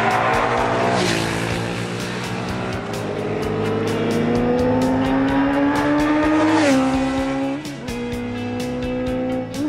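Motorcycle engine accelerating, its pitch climbing for several seconds and then dropping at a gear change about two-thirds of the way through, before holding steady. Music with a steady beat plays underneath.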